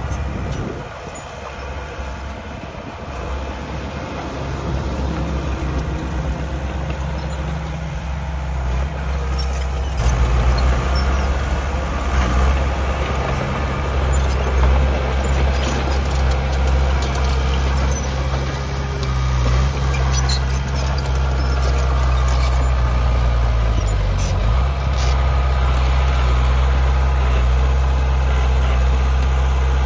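Heavy diesel earthmoving machinery running, a steady low engine drone with scattered metallic clicks and clanks. About ten seconds in it abruptly gets louder, and a little past twenty seconds the engine pitch briefly sags and then recovers, as under load.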